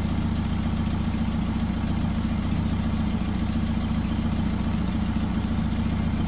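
Freshly rebuilt Porsche 912 air-cooled flat-four engine idling steadily, an even, pulsing low hum, just after a valve adjustment.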